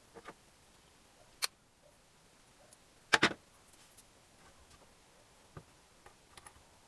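Tools and parts being handled during engine assembly: a few sharp clicks and knocks. A single knock comes about a second and a half in, and the loudest, a quick double knock, about three seconds in, with fainter ticks in between.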